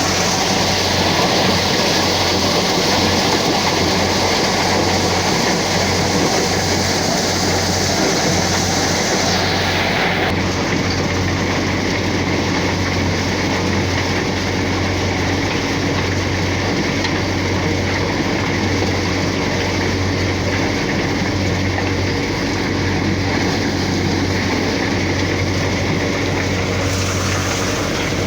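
Tractor-powered NVT thresher running steadily with the John Deere 5050D tractor's engine: a loud, continuous mechanical din. The highest hiss thins about ten seconds in.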